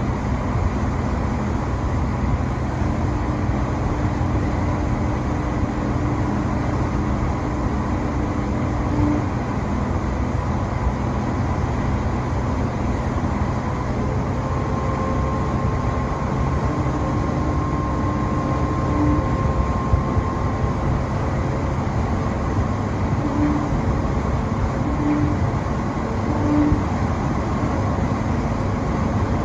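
Steady low rumbling drone with a few faint held tones over it, and three short tones near the end.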